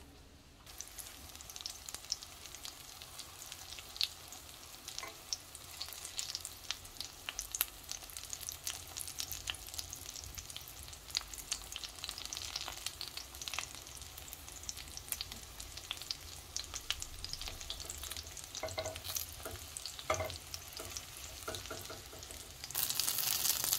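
Battered zucchini pieces sizzling and crackling in hot oil in a frying pan. A fork knocks against the pan a few times as the pieces are turned.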